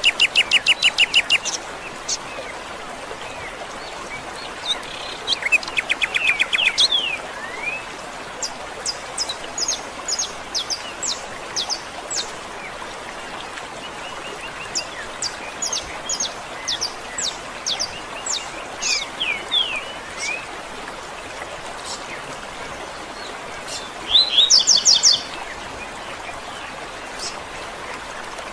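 Wild birds chirping and trilling, with a fast, loud trill near the start, another about six seconds in and a third around twenty-four seconds in, and scattered short high chirps in between. A steady hiss lies underneath throughout.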